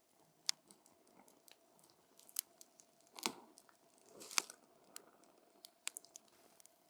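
Campfire crackling as the burning wood pops irregularly. Sharp snaps come a few times a second apart, the loudest about a third and two thirds of the way through, over a faint hiss.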